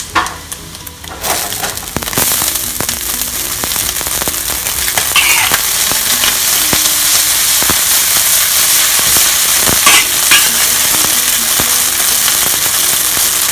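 Garlic and egg sizzling in hot oil in a wok. The sizzle gets much louder about two seconds in, as dry rice vermicelli goes in, and a wok spatula scrapes and clinks against the pan while stirring.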